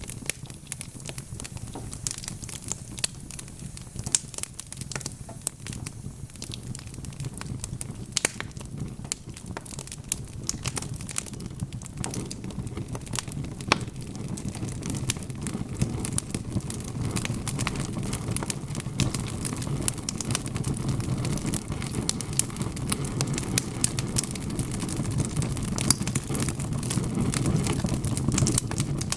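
Wood log fire in a fireplace crackling, with many sharp crackles and pops over a low, steady rumble of the flames. The rumble grows louder about halfway through.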